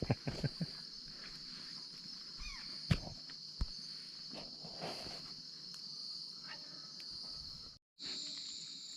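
Night insects trilling in a steady high-pitched chorus, with a few sharp clicks in the first second and two knocks about three seconds in.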